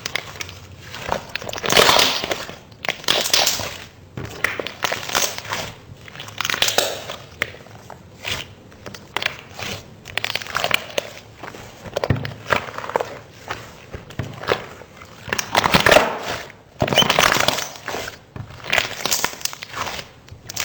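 Slime being pressed and squished by hand, giving a run of crackling squishes about one a second. The loudest come about two seconds in and again near sixteen seconds.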